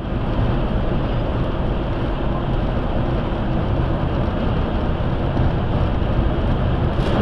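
Strong wind blowing hard across the microphone, a dense low rush that swells and buffets unevenly.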